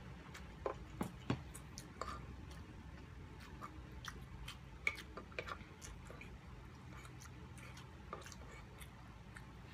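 Close-up mukbang chewing of steamed siomai dumplings and pancit canton noodles: wet mouth clicks and smacks over a low room hum. Sharper clicks come a few times in the first second and a half and once about five seconds in.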